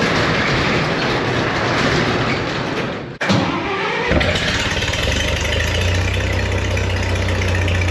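Farmall 560 tractor's six-cylinder engine being cranked, with a sharp pop (a little backfire) about three seconds in, then catching and settling into a steady low idle.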